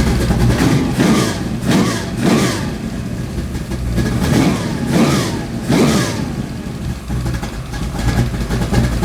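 489 cubic-inch big-block Chevrolet V8 with a hydraulic roller cam, running on an engine test stand, its throttle blipped six times in two quick sets of three. Each rev rises and falls back to idle within about half a second, and the engine then idles steadily near the end.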